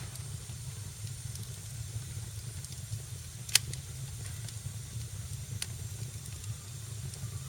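Wood fire burning in a fireplace: a steady low rumble and hiss with scattered small crackles, and one sharp, loud pop about halfway through.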